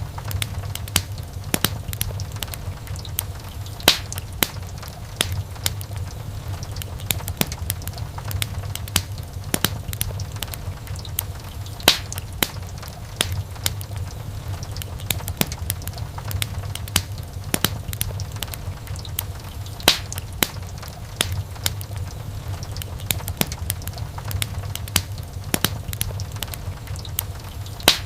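Wood fire crackling in a fireplace: many small snaps and pops over a steady low rumble of the flames, with a few louder pops.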